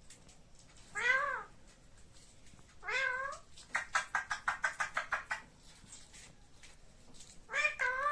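Indian ringneck parrot calling: three short, arched, falling calls about two seconds apart, with a rapid chattering run of about a dozen quick notes in between.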